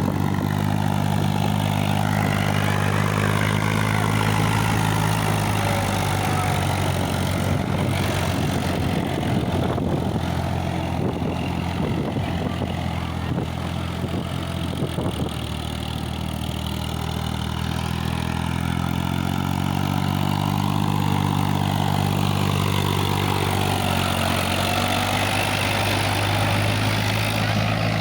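Sonalika tractor's diesel engine running steadily, with a stretch of rattling knocks in the middle, after which the engine note rises.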